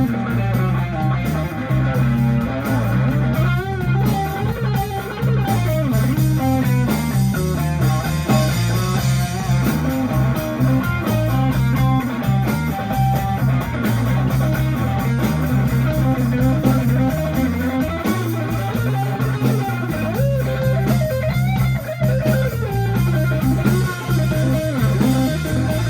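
Live blues band playing an instrumental passage without vocals: an electric guitar lead with bending notes over a steady bass guitar line.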